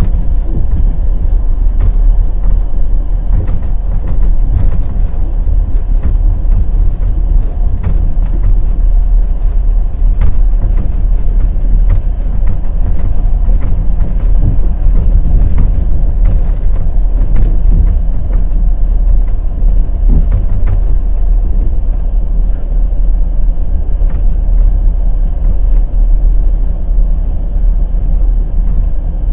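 Passenger train's wheels running on the rails: a steady heavy rumble with scattered clacks of the wheels.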